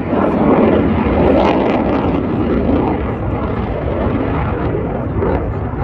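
Aircraft flying past, a loud steady engine rush.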